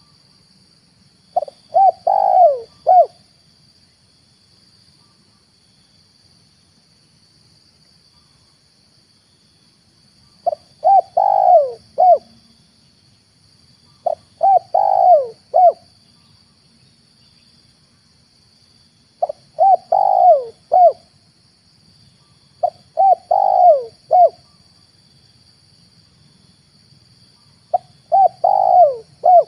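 Spotted dove (tekukur) cooing: six phrases of three to five short coos each, repeated every few seconds. A faint steady high-pitched hiss runs underneath.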